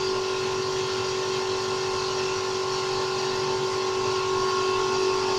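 A motor running steadily, a constant hum with a few fixed tones and no change in speed.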